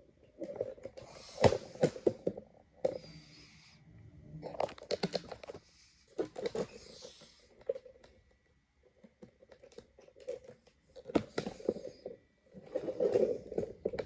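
Irregular knocks, clicks and rustling from handling materials and moving around the work area, with no power tool running.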